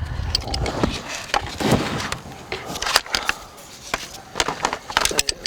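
Irregular clicks, knocks and rustles of hands handling a seat belt retractor and its webbing while fitting it into the car.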